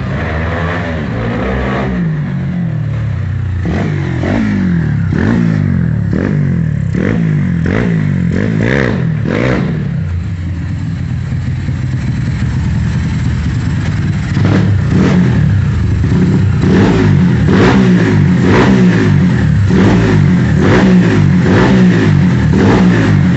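Tuned pushrod single-cylinder motorcycle engine, built with a CRF piston and running on ethanol, revved in repeated quick blips that rise and fall. It settles briefly about halfway through, then is revved harder again.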